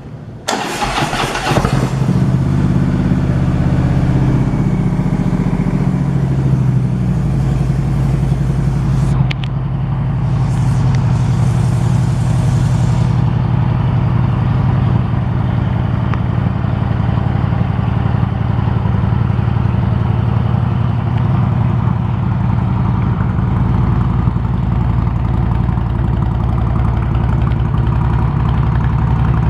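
Harley-Davidson Twin Cam 103 V-twin with a Vance & Hines aftermarket exhaust firing up about half a second in, then idling steadily.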